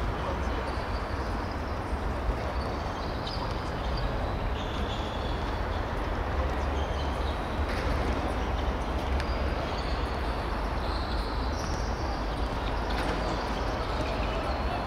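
Steady outdoor background noise with a deep low rumble, and a few faint short high sounds now and then.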